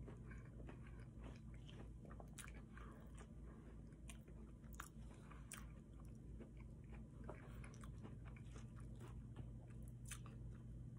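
Close-up mouth sounds of a person chewing a mouthful of fried chicken tenders and mashed potatoes: soft crunches and wet chewing, with scattered small clicks. A steady low hum runs underneath.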